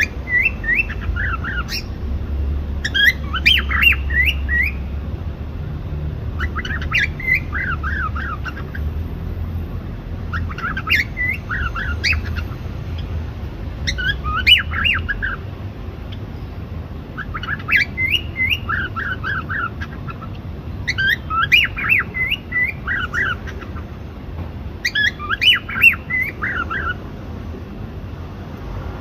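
Cockatiel calling in short phrases of quick, falling chirps, repeated about every three to four seconds, over a low rumble that fades after the first half.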